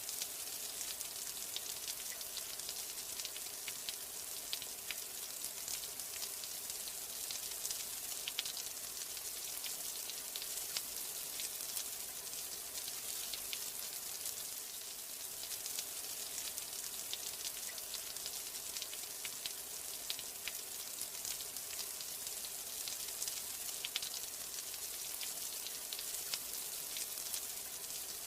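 Steady rain: a dense, even hiss with many sharp drop ticks scattered through it.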